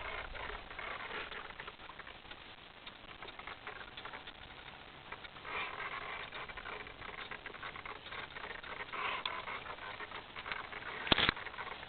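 Small waves pattering and splashing against the hull of an RC model sailing yacht, irregular, in louder spells now and then, with one sharp knock a little before the end.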